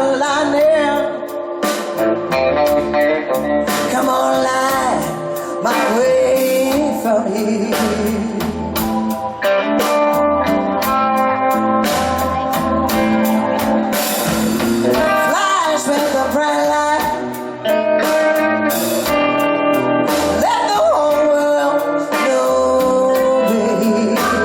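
Live blues band playing a slow song: a woman singing lead over electric guitar and drums.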